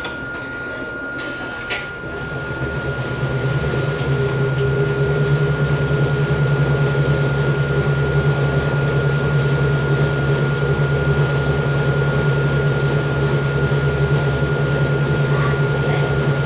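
Steady mechanical running noise inside a Hakone Tozan Railway Moha 1 electric car. A low hum comes up between about two and four seconds in and then holds level, with a thin high tone sounding throughout.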